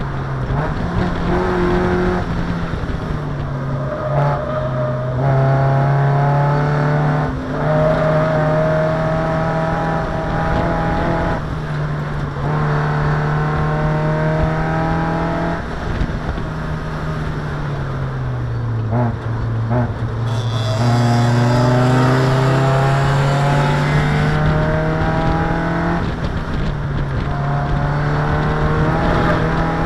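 Race car engine heard from inside the cabin under hard acceleration, revs climbing and dropping at each gearshift. It falls off under braking and downshifts about two-thirds of the way in, then pulls up through the gears again.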